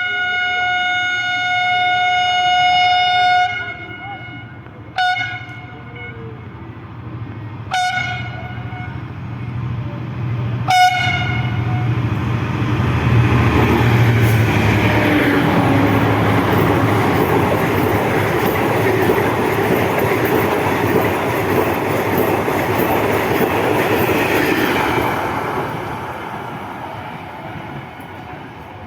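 Diesel locomotive horn: one long blast, then three short toots a few seconds apart. The train then passes with loud, steady running noise that dies away near the end.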